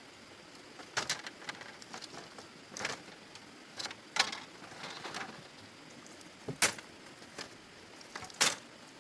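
A run of irregular sharp knocks and clicks, some with short scraping sounds, the loudest three coming about four, six and a half and eight and a half seconds in.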